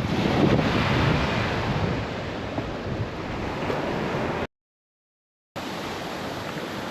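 Ocean surf washing on a beach with wind buffeting the microphone. About four and a half seconds in the sound drops out to total silence for about a second, then the surf and wind return more quietly.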